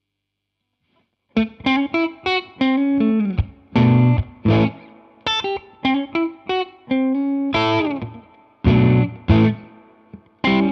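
Electric guitar played through a Jeds Peds Bird Strike preamp pedal (a Hudson Broadcast dual preamp clone) with some drive: a short phrase of picked notes and chords, several bending in pitch. The playing starts about a second and a half in, after silence.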